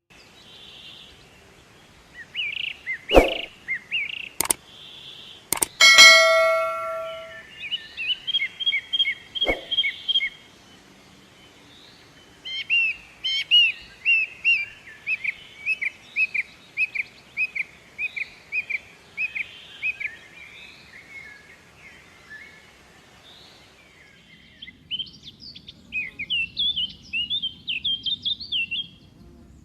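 Small birds chirping in quick repeated runs of short notes. A few sharp clicks come in the first ten seconds, and about six seconds in there is a loud, short ringing tone, like a struck metal object.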